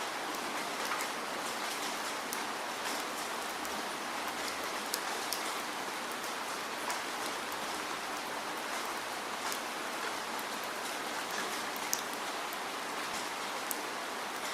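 Steady rain falling, an even hiss with scattered sharp drop ticks of individual raindrops hitting a surface.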